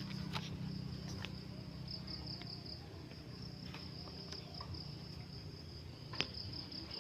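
Insects trilling: a steady, high, pulsing chirr, over a low hum, with a few sharp clicks, one louder about six seconds in.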